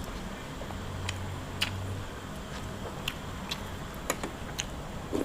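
Eating sounds: scattered light clicks and taps of a utensil against a dish, about eight sharp ticks spread unevenly over five seconds.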